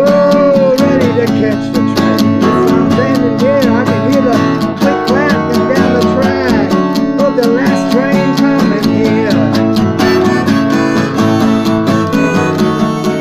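Acoustic guitar strummed in a steady country-style rhythm, with a wavering melody line over it for the first eight seconds or so.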